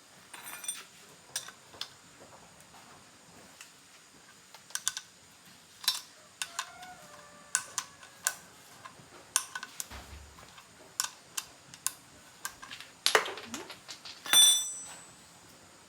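Irregular sharp clicks and metallic clinks of hand tools and small metal motorbike parts being handled and set down, a few ringing briefly, the loudest clinks coming near the end.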